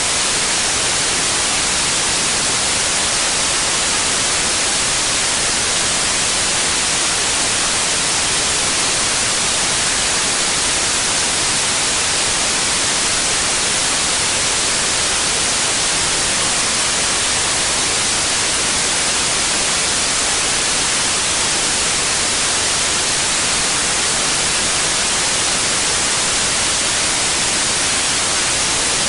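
Steady synthetic white noise, an even hiss that never changes.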